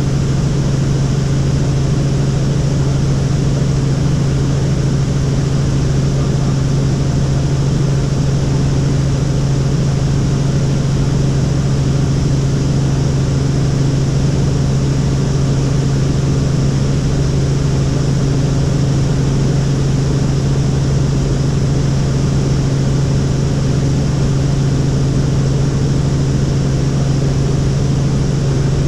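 Helicopter in steady flight: the continuous noise of the engine and rotors, with a strong low hum that never changes.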